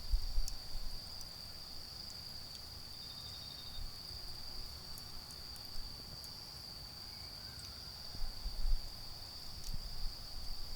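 Autumn insects, crickets among them, keep up a steady high-pitched trill, with a second short pulsed trill about three seconds in. Sparse sharp crackles come from the burning charcoal, and low rumbles swell at the start and again near the end.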